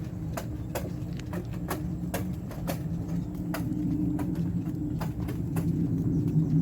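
A motor running with a steady low hum that grows a little louder, with irregular sharp clicks about twice a second over it.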